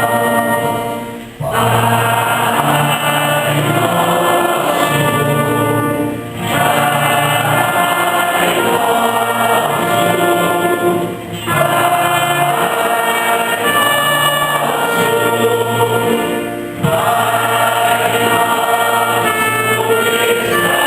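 A church singing group singing a Mass hymn together, in phrases of about five seconds with short breaks between them.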